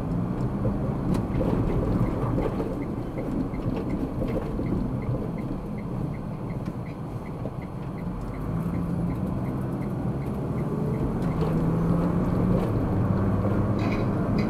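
Car driving, engine and road noise heard from inside the cabin. From about two seconds in, a small regular ticking comes at about three ticks a second for several seconds, typical of the turn-signal indicator clicking.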